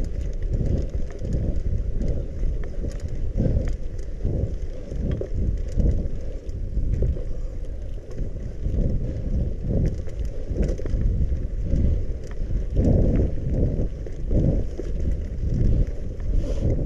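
Bicycle ridden along a muddy trail: wind buffeting the microphone in gusts, over the tyres rolling and faint clicks and rattles from the bike.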